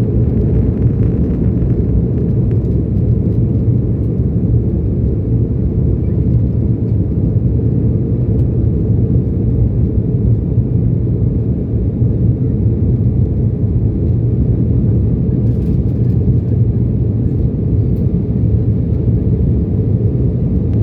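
Steady low rumble of an airliner cabin in flight shortly after takeoff: jet engine and airflow noise heard from inside the fuselage.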